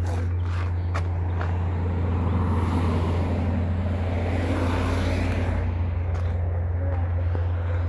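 A vehicle passing: its noise swells from about two seconds in and fades away by about six, over a steady low rumble.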